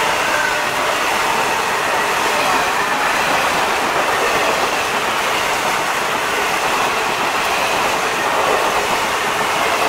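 Passenger coaches of a train passing close by at high speed: a steady, loud rushing clatter of wheels on the rails.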